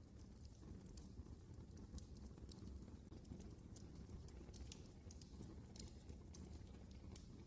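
Wood fire burning in a fireplace, crackling faintly with irregular sharp snaps and pops over a low, steady rumble of the flames.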